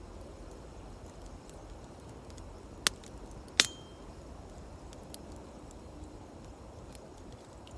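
Two sharp metallic clinks less than a second apart, the second ringing briefly, over a steady low outdoor rumble with faint scattered ticks from a wood campfire.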